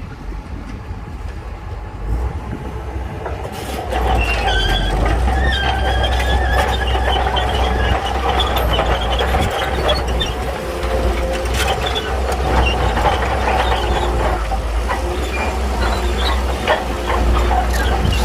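Shantui crawler bulldozer working, its diesel engine rising to a heavy load about four seconds in, while the steel tracks squeal and clank.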